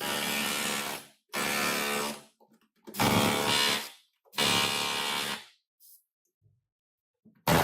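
A power tool run in short bursts of about a second each, four times in quick succession, then a pause of about two seconds before it starts again near the end.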